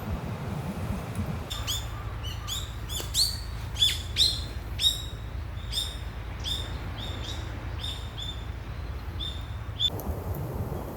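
A bird calling with a quick series of short chirps, about three a second, for around eight seconds, over a low steady rumble.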